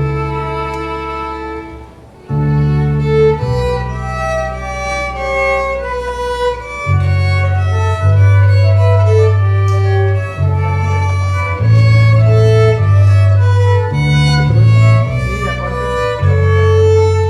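Baroque chamber music played live on bowed strings: a violin melody over sustained low bass notes, breaking off briefly about two seconds in before going on.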